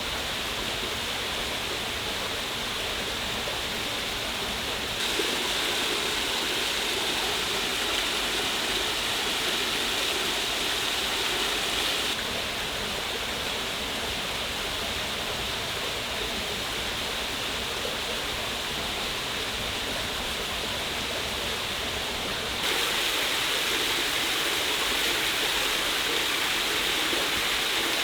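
Steady rushing of a waterfall, with no crackle or other distinct events; the level jumps abruptly up or down three times.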